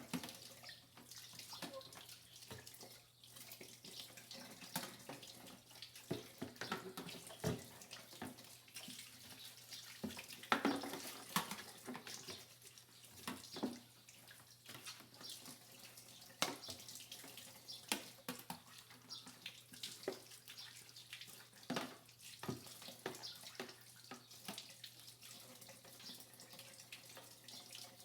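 Water running from a tap into a sink, with many irregular knocks and clicks of hard parts being handled and rinsed.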